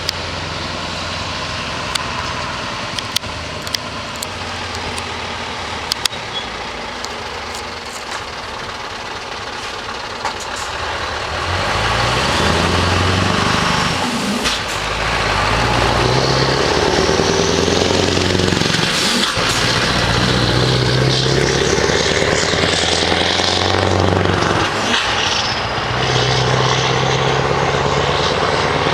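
Scania R560 truck's V8 diesel idling steadily, then about twelve seconds in it gets louder and pulls away, the revs climbing and dropping back several times as it shifts up through the gears.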